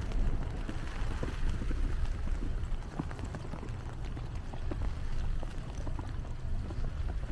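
Wind buffeting the microphone as a low, steady rumble, with irregular crunching footsteps in snow.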